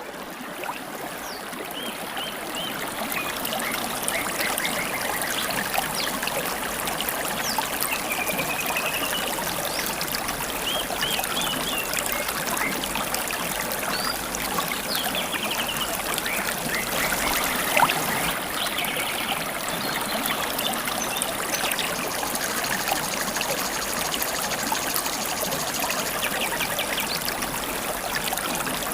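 River water babbling and trickling steadily, with short chirps and trills from several kinds of wild songbirds scattered over it.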